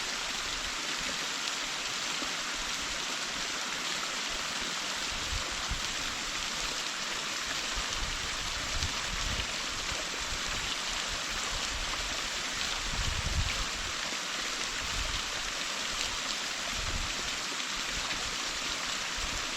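Waterfall crashing down close by: a steady, dense hiss of falling water.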